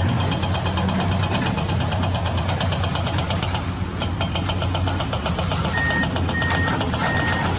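A vehicle engine running steadily with a rhythmic chug. From about six seconds in, a reversing alarm starts beeping in short, evenly spaced high beeps.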